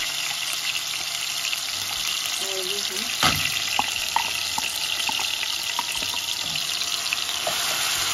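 Chopped onion, garlic, ginger and tomato paste sizzling in hot sunflower oil in a steel pot, with a few small pops. There is a single sharp knock about three seconds in as the paste is scraped from the chopper jar with a wooden spoon, and stirring near the end.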